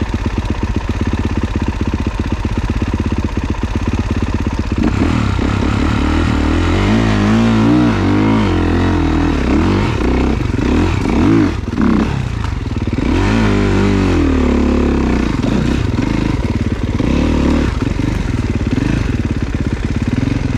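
Off-road dirt bike engine, running steadily at first, then revved up and down again and again from about five seconds in, with a short drop-off near the middle before it settles back to steadier running.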